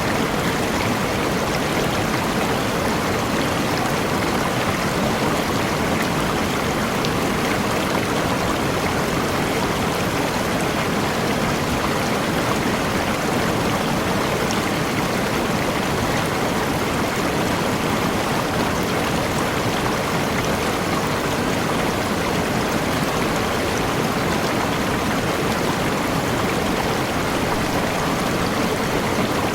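Forest waterfall and the stream below it, a steady rushing of falling and running water.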